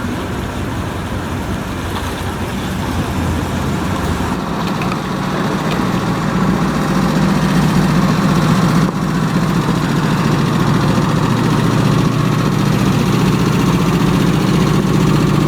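Car engine idling with a steady low rumble that grows louder after about four seconds.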